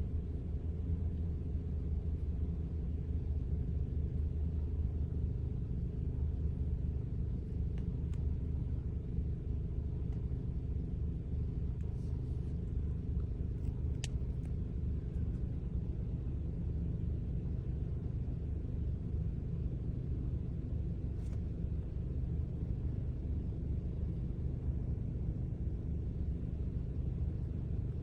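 Car engine idling: a steady low hum, with a few faint clicks.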